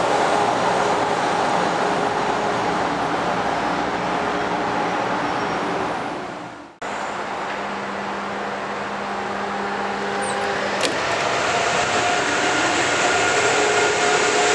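The steady hum and hiss of electric trains at the station platforms fades out. Then an Amtrak Acela Express power car comes in along the platform, and the steady whine of its electric motors and blowers grows louder as it draws alongside, with one short click partway through.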